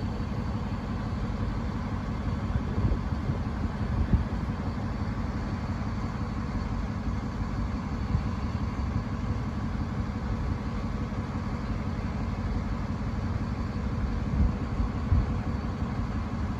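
Steady low rumble of engines idling, with no clear rise or fall.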